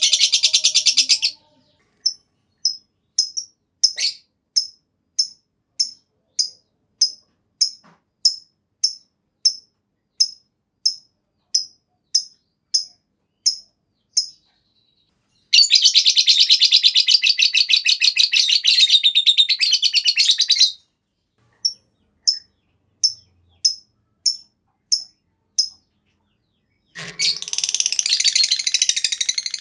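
Lovebird chattering in long, rapid high-pitched trills (the 'ngekek panjang' song), one running about five seconds. Between trills come runs of short single chirps at about two a second.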